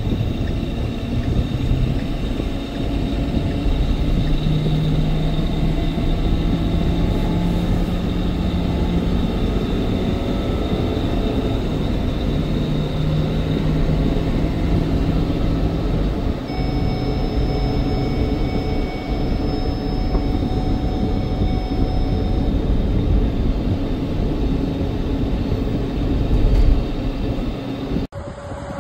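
Ford F-550's 6.7L Power Stroke V8 diesel running as the truck is driven, with steady drivetrain and road noise. The engine note shifts in pitch now and then, and the sound cuts off abruptly near the end.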